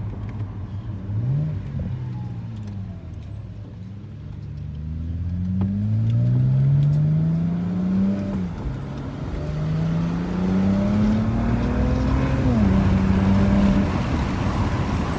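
BMW 328i's engine accelerating hard, its pitch climbing through a gear. It drops at an upshift about 8 seconds in, climbs again through the next gear, then drops at a second upshift near the end and holds steady.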